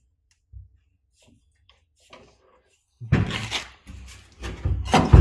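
Clunks and scraping of car parts being handled, first faint ticks, then louder rattling bursts in the second half.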